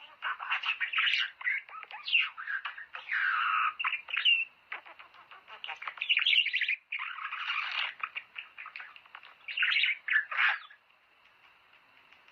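Budgerigars chattering and warbling, a quick jumble of chirps, squeaks and short squawks that stops near the end.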